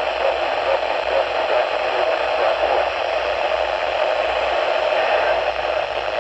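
Steady radio static hiss from a weather-radio receiver on a very weak NOAA Weather Radio signal: poor reception has buried the broadcast in noise.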